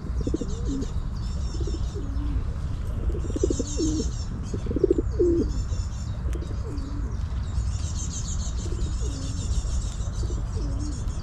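Pigeons cooing over and over, in short low calls that bend in pitch, with high chirps of smaller birds above and a steady low rumble underneath.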